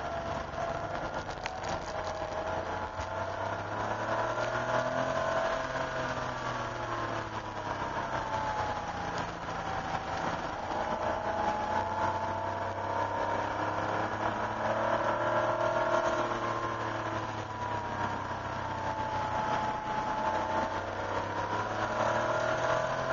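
1988 Porsche 911's air-cooled flat-six engine heard from inside the cabin, pulling in second gear, its revs rising and falling several times as the car goes through corners.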